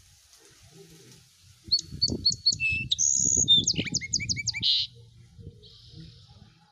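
A small songbird sings one quick, varied phrase of sweeping notes and trills, starting about two seconds in and lasting about three seconds. A low rumbling noise runs under it.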